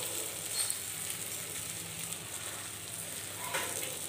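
Marinated liver pieces sizzling steadily in hot oil in an iron kadai, fried down to the stage where the oil separates. A wooden spatula scrapes and stirs through them a couple of times.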